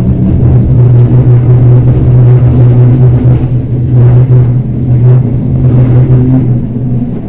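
Bernina Express electric train running along the line, a steady loud rumble with a low hum, easing off near the end.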